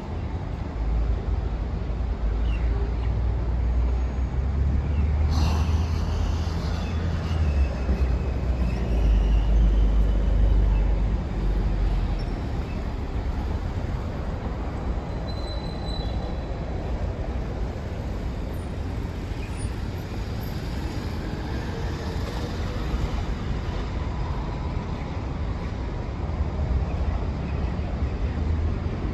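Steady traffic and vehicle noise with a heavy low rumble, loudest in the first half.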